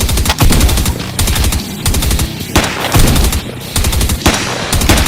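Automatic gunfire sound effect, coming in several short rapid-fire bursts about a second apart.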